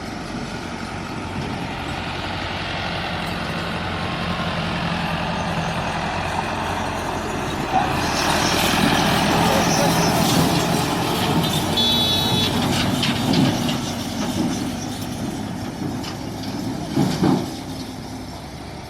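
Massey Ferguson 385 tractor's diesel engine running under load while pulling a heavy trolley, growing louder until about halfway through and then easing off, with a brief high beep near the middle and a couple of knocks near the end.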